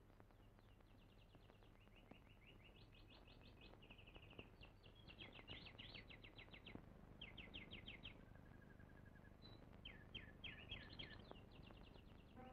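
Faint birdsong: short runs of rapid, high chirping trills, one after another.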